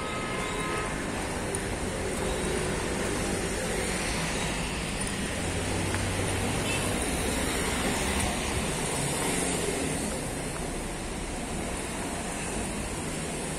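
Steady urban street ambience of road traffic noise, with a low engine hum rising slightly about halfway through.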